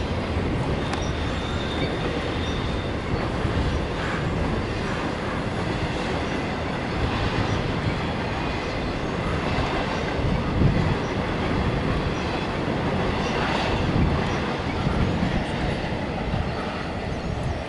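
Norfolk Southern intermodal freight train's cars rolling across a steel girder bridge: a steady rumble of wheels on rail with occasional clicks. The sound drops a little near the end as the last cars clear the bridge.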